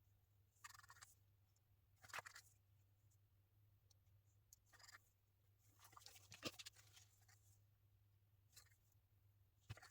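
Near silence with a low steady hum, broken by faint scattered taps and scrapes of small objects being handled, the clearest about two seconds in and around six to seven seconds in.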